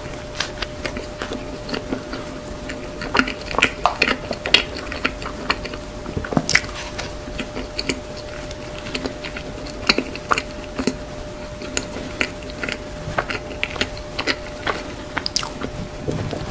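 Close-miked biting and chewing of a soft mocha cream-filled bun: irregular mouth clicks and smacks. A faint steady hum runs underneath.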